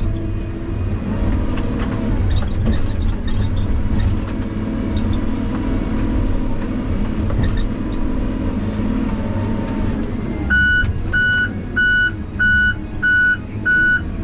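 Heavy equipment engine running steadily. About ten seconds in, a backup alarm starts beeping, roughly one beep every 0.6 s: the machine is reversing.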